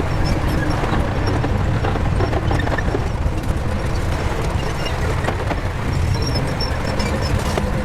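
Shantui crawler bulldozer's diesel engine running steadily, with scattered clanks and knocks from its steel tracks.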